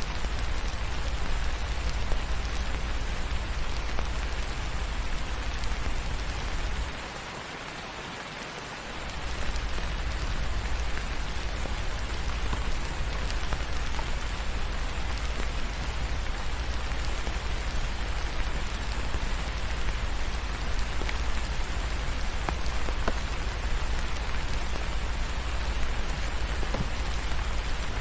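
Steady rain with a deep low rumble underneath. About a quarter of the way in, the rumble drops out for roughly two seconds, leaving the rain quieter, then returns.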